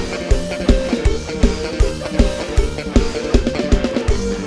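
A live band plays fast, upbeat Thai dance music, with a steady kick drum about three beats a second under guitar and keyboard lines.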